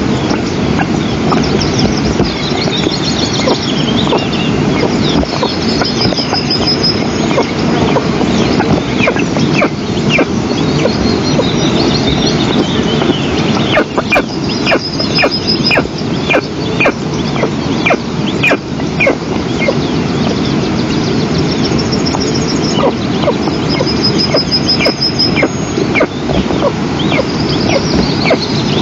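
Steady rushing noise on a nest-camera microphone, with birds calling over it. Short high calls repeat about twice a second through the middle, typical of eastern imperial eagle chicks begging for food. Trilled high calls from other birds recur every several seconds.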